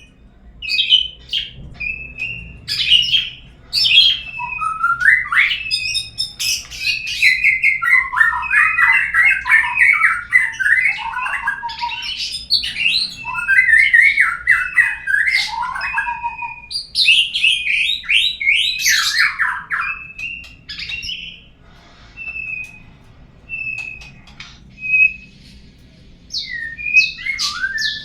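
Murai songbird singing a loud, varied song of rapid warbled and whistled phrases, densest through the middle. Later it thins to short single whistled notes, before more phrases come near the end.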